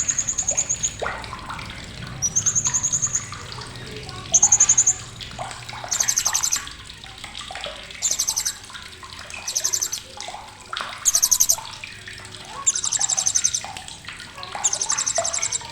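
Blue-crowned hanging parrot (srindit) giving sharp, very high, rapid rattling trills in short bursts, one about every two seconds.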